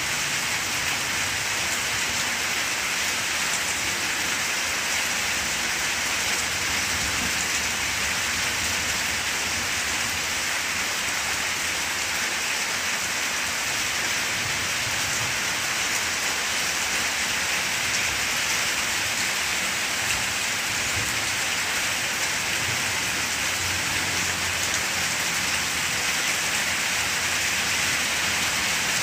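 Steady rain falling on banana plants and their broad leaves, an even hiss that does not change.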